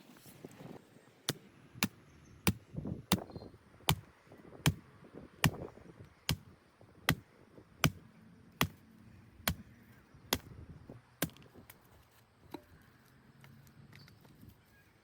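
Wood being chopped, a blade striking it in a steady rhythm of about fifteen sharp blows, one every second or less, that stop a little before the end.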